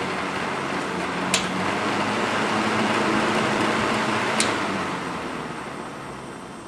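Eskimo 121050 12-inch box fan running, with a steady rush of air over a low motor hum. Two sharp switch clicks come about a second and a half in and about four and a half seconds in. The fan gets a little louder after the first click, and after the second it begins to wind down.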